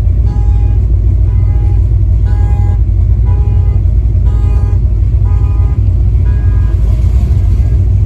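V8-swapped Chevy LUV pickup driving, a steady deep engine and road rumble, with a string of short musical notes over it.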